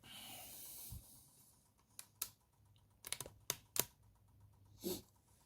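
Handling noise: a brief rustle, then a scatter of light clicks and taps, with one short louder sound near the end.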